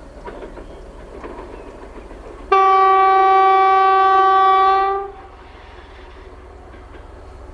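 2M62U diesel locomotive's horn sounding one long, steady blast of about two and a half seconds, starting sharply partway in. Before and after it, the low rumble and faint clicks of the running train.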